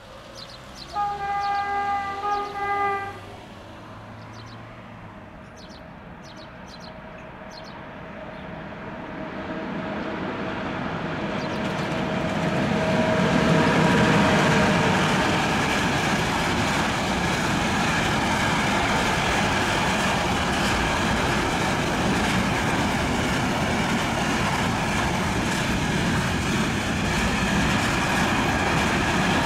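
Electroputere EA 5100 kW electric locomotive sounding its horn for about two seconds, about a second in. Then comes the rumble of its container freight train, rising as it approaches and peaking as the locomotive passes about halfway through. The container wagons keep up a steady rolling noise after that.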